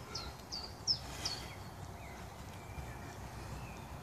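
A songbird singing: a quick run of about five short, high, down-slurred notes in the first second and a half, followed by a few thinner, longer whistled notes, over a steady outdoor background hum.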